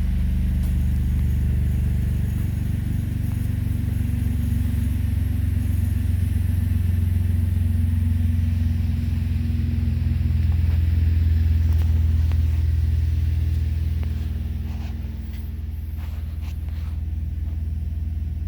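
2008 GMC Acadia's 3.6-litre V6 engine running steadily, growing a little louder in the middle and easing off somewhat near the end.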